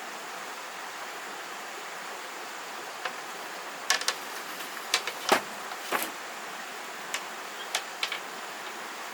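Scattered short, light knocks and clicks, irregular and some in quick pairs, over a steady background hiss.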